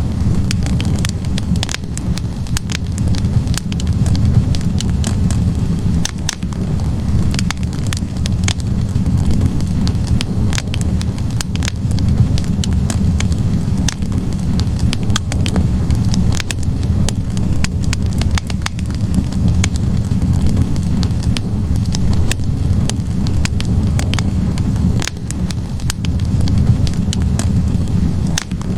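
Logs burning in a fireplace: a wood fire crackling, with frequent irregular sharp pops over a steady low rumble of the flames.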